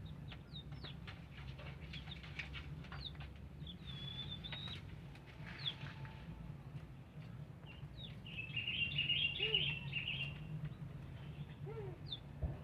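Small birds chirping in short falling notes, with a louder burst of twittering about two-thirds of the way through, over a steady low hum.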